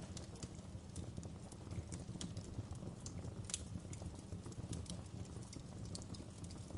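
Wood fire crackling in a fireplace: a steady low rumble of flames with irregular sharp pops and snaps, a few louder ones scattered through.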